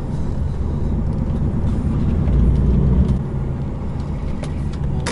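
Truck engine and road noise heard from inside the cab while driving, a steady low drone that swells slightly about halfway through.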